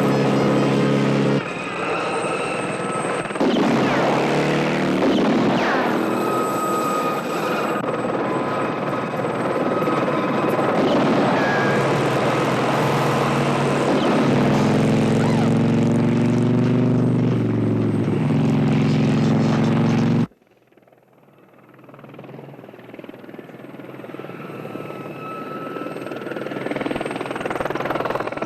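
A helicopter's engine and rotor mixed with an engine whose pitch rises and falls. The sound cuts off abruptly about twenty seconds in, then a helicopter sound builds up again from quiet.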